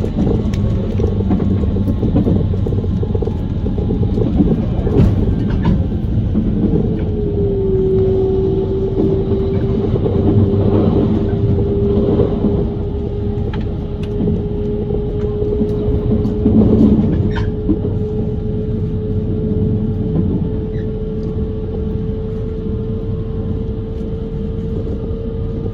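JR Kyushu 883 series Sonic limited-express train running, heard from inside the car: a steady rumble of wheels on rails. About seven seconds in a single whine comes in, dips briefly, then climbs slowly.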